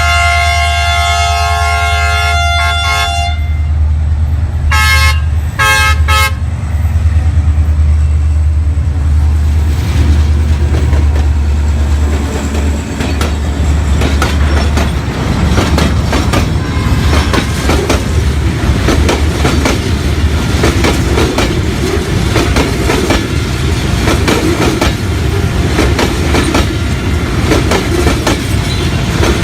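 A train horn sounds a long, steady chord and then two short toots. The train then passes close by with a loud rolling clatter of wheels over rail joints, with a low steady engine drone under the first half of the pass.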